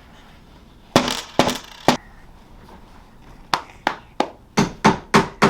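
A hammer striking nails into the wooden pieces of a kit, about ten sharp knocks: three spaced taps about a second in, then a faster run of seven from about halfway.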